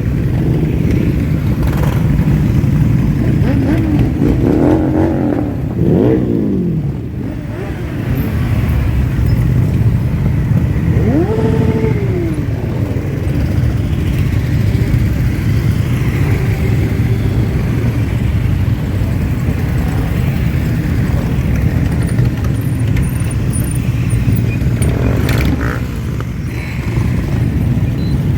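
Many motorcycle engines running in a group parade, a steady low rumble with single bikes revving up and back down, a few seconds in and again about eleven seconds in.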